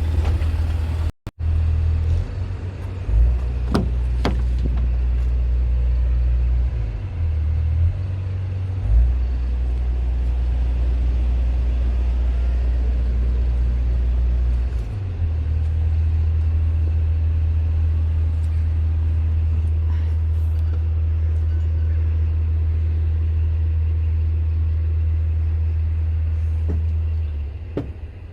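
Scania R500 truck's 13-litre inline-six diesel running, a steady low rumble that shifts in level a few times, with a couple of short clicks about four seconds in; it fades near the end.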